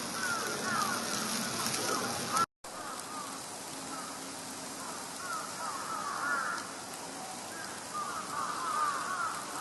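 Outdoor ambience in a heavy snowstorm: a steady hiss, with repeated bursts of quick high chirps. The sound cuts out for a moment about two and a half seconds in.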